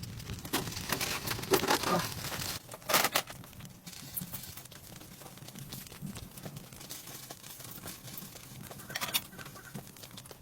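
Irregular crinkling and rustling of something being handled, loudest in the first three seconds, then fainter scattered crackles with a short flurry near the end.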